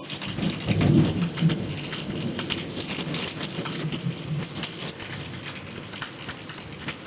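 Heavy rain pouring down with a patter of drops, and a roll of thunder that rumbles loudest about a second in, then fades into the rain.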